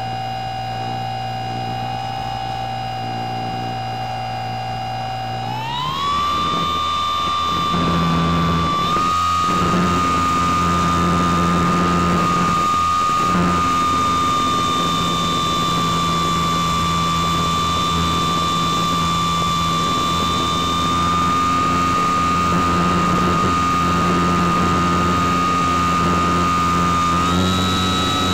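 An RC motor glider's motor and propeller running, heard from on board the plane: a steady whine that steps up to a higher pitch about six seconds in as the throttle is opened further, then holds, rising a little again near the end.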